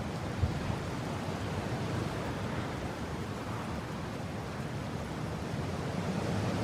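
Steady wind noise, a low, even rushing with no distinct gusts or whistling, and a brief low thump about half a second in.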